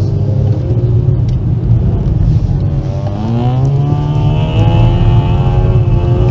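Volkswagen Golf V's 1.4 petrol four-cylinder engine heard from inside the cabin, pulling steadily through a corner over a strong low road rumble. About three seconds in, the engine pitch rises as the car accelerates, then holds.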